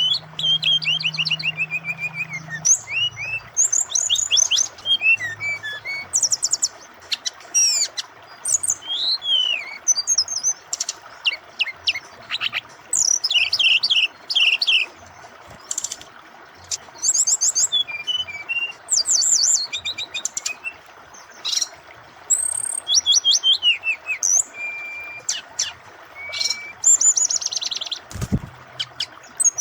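Brown-chested jungle flycatcher (sikatan rimba dada coklat, SRDC) singing a varied song of rapid trills, chirps and short whistles, over the steady sound of flowing water.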